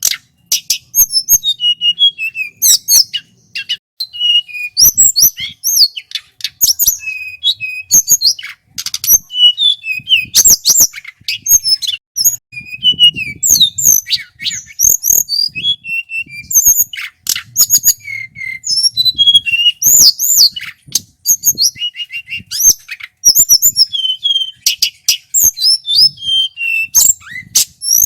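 Male tledekan gunung (a local mountain flycatcher) singing continuously: a rapid, varied run of loud, clear whistles and trills, with only brief pauses.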